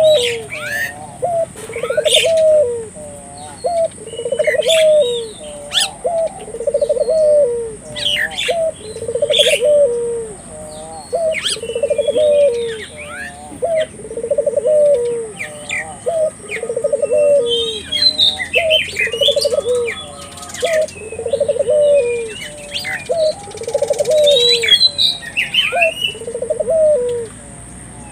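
Ringneck dove (burung puter) cooing over and over, one coo of about a second every one and a half to two seconds, in full song. Small birds chirp higher up in the background.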